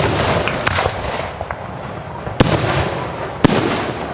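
Fireworks display: aerial shells bursting, with a loud bang right at the start and two more about two and a half and three and a half seconds in, and smaller pops and crackle between them.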